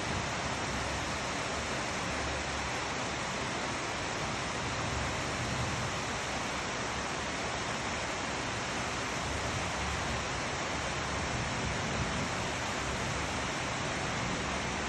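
Steady rain falling, an even hiss without distinct drops or changes.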